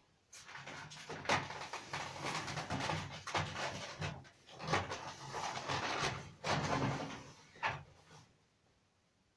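Irregular handling noises, rustling with scattered clicks and knocks, which stop shortly before the end.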